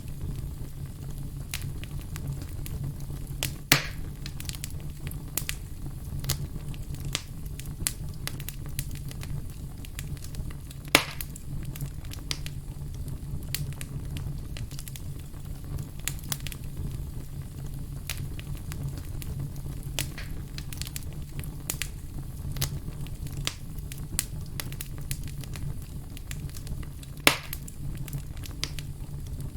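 Wood fire burning in a fireplace, with a steady low rumble and scattered crackles and pops, a few louder pops standing out.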